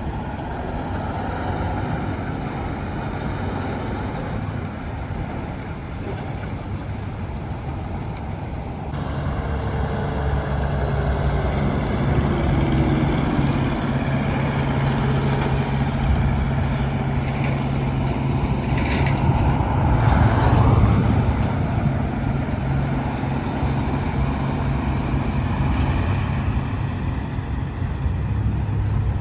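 Semi trucks and traffic passing on a highway: a steady din of engines and tyres. From about nine seconds in a heavy truck engine's low hum grows stronger, with a falling whine as something passes, and the noise peaks around twenty seconds in.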